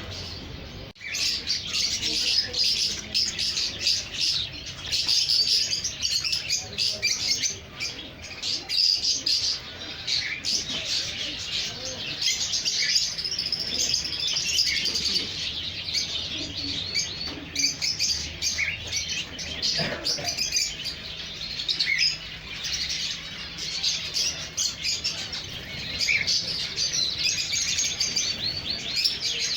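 Many small caged songbirds chirping and twittering at once, a dense, continuous chorus of overlapping high calls that jumps louder about a second in.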